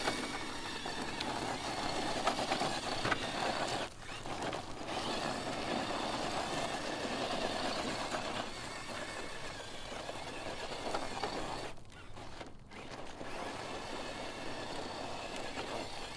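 Electric motor and geared drivetrain of a 1/10-scale Element RC Enduro Knightrunner crawler running under load as it climbs a dry-soil trail at full throttle. The sound drops away briefly twice, about four seconds in and again about twelve seconds in.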